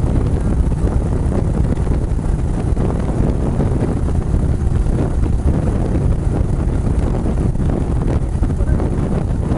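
Heavy wind buffeting on the microphone of a moving motorcycle, a steady low rumble, with the Kawasaki Estrella's single-cylinder engine running underneath.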